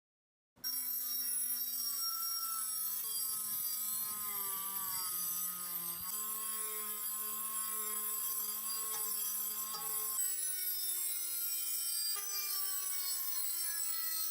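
A small power tool working on metal lamp parts: a steady motor whine with a hissing scrape, starting abruptly about half a second in, its pitch jumping several times.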